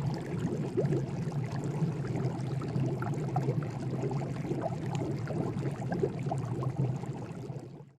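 Water at a rolling boil in a pot: constant bubbling and popping over a steady low rumble, stopping abruptly just before the end.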